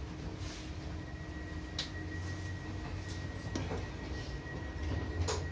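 Sydney Light Rail tram cab ambience: a steady low hum from the tram's equipment, with a steady high tone coming in about a second in. A few sharp clicks sound over it.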